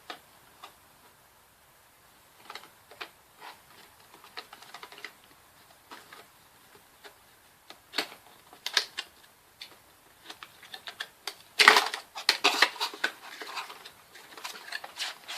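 Product packaging being handled and opened by hand: irregular clicks, taps and rustles, with a louder flurry of handling about twelve seconds in.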